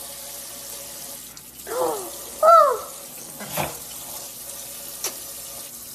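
Tap water running steadily, with two short arched calls from a small pet parrot about two seconds in, the second one louder. A couple of brief sharp clicks follow.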